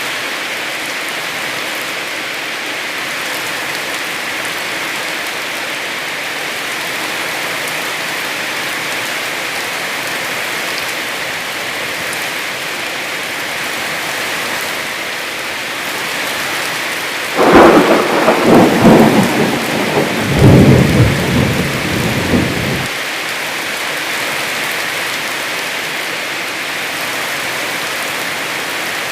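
Heavy rain falling steadily, with a sudden crack and rumble of thunder about seventeen seconds in that lasts about five seconds and is the loudest thing heard.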